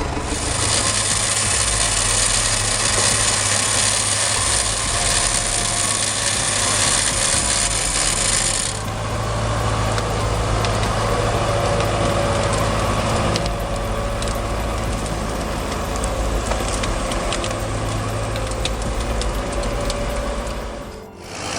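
Heavy machinery running, a steady low engine drone under mechanical clattering and creaking. A loud hiss sits over it for the first eight seconds or so, then stops abruptly.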